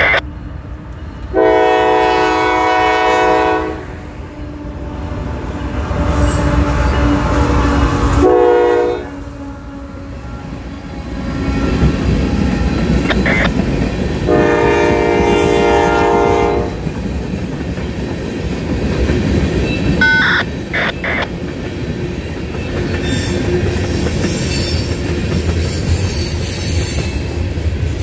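Freight locomotive air horn sounding at a grade crossing: a long blast, a short one and another long blast. Under and after it, the train runs past close by, with engine rumble and the steady clatter of freight cars on the rails.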